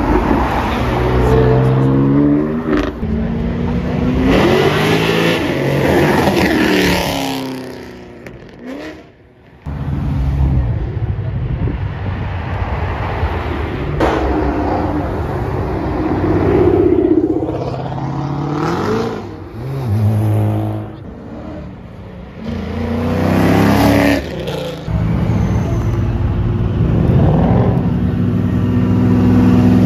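Several cars accelerating hard away one after another, each engine revving up and dropping at the gear changes. The first and longest pull comes from a BMW sports coupe.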